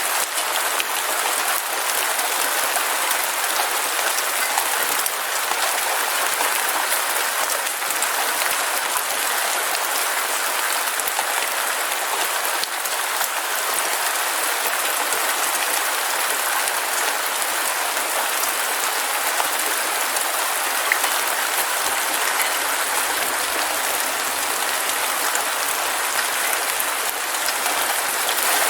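Heavy rain falling steadily: a dense, even hiss of drops with many crisp individual drop ticks close by.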